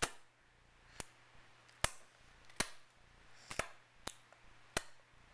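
A pet eating, with a series of short, sharp clicks or cracks about once a second, two of them in quick succession about three and a half seconds in.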